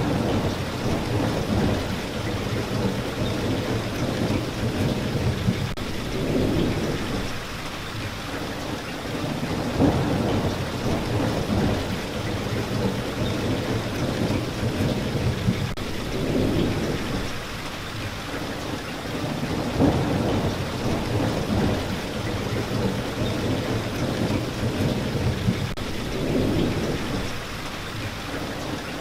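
Steady rain falling, with low rolling thunder swelling and fading several times.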